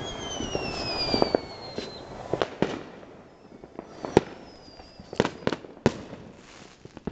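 Fireworks going off: dense crackling pops and bangs in the first two seconds, with a long falling whistle over them. Fewer but louder single bangs and another falling whistle come about four to six seconds in.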